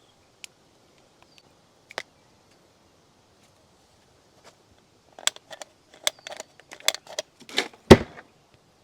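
Sharp clicks and knocks: two lone clicks early, then a quick irregular run of them from about five seconds in, the loudest a knock near the end.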